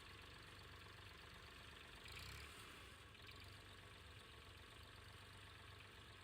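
Freshly started OJA 2124 compact diesel tractor engine idling steadily, with a brief rise about two seconds in; its firing is being shown as a sign of the tractor's condition.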